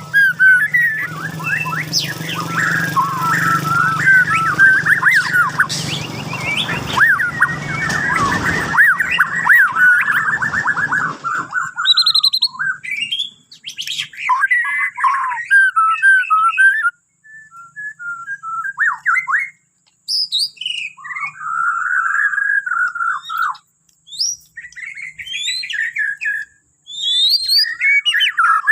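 Borneo shama (murai batu) singing a run of quick, varied whistled phrases that slide up and down. A steady background noise under the song stops about eleven seconds in, and after that the phrases come in separate bursts with short pauses between them.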